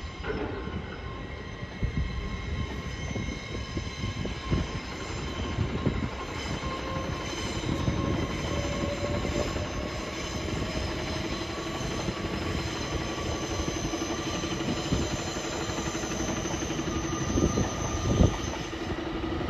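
LNER Class 800 Azuma multiple unit moving slowly past. Its traction equipment whines in several steady high tones, and one tone rises in pitch as the train gathers speed. The wheels knock over the rail joints, with one sharp knock near the end.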